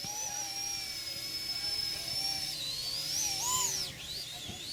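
Small electric RC helicopter, a 1:36 scale EC135 model, whining high-pitched from its motor and rotors. The pitch holds steady, rises about three and a half seconds in, then drops sharply just before four seconds as the throttle changes.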